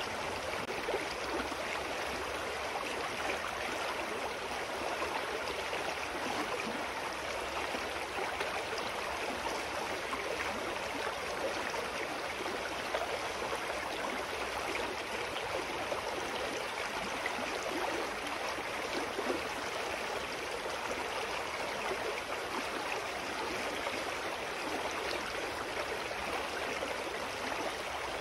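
Clear mountain stream flowing over rocks: a steady, unbroken rush of water with fine gurgling.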